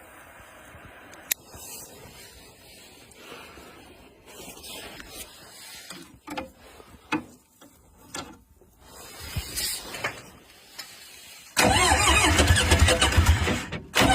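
Several quiet clicks and knocks, then about 11 and a half seconds in an engine starts abruptly and runs loudly. It drops out for a moment near the end and picks up again.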